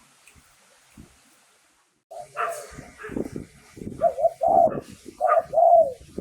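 Spotted dove cooing: a run of loud, repeated coo phrases that starts about two seconds in after a quiet stretch, the kind of call used to lure wild doves.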